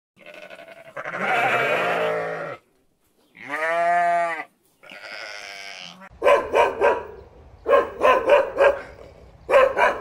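Lambs bleating, three drawn-out calls in the first six seconds. Then a dog barking in three quick runs of several barks.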